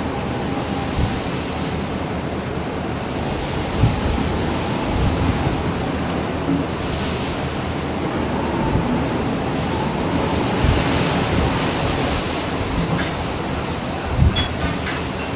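Big sea waves rushing and breaking around a ship, with wind buffeting the microphone. Two louder low thumps stand out, about four seconds in and near the end.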